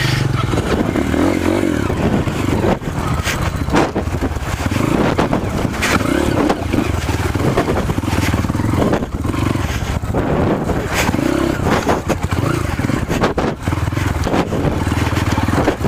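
Off-road motorcycle engine running under load as the bike is ridden on a dirt trail, the revs rising and falling repeatedly.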